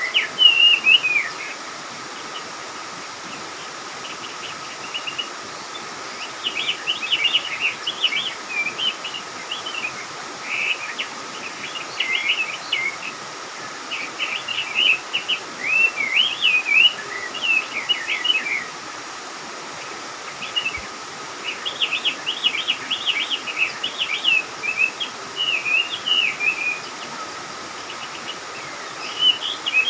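Songbirds chirping in repeated flurries of quick, high notes, each lasting a second or two with short pauses between, over a faint steady background hiss and tone.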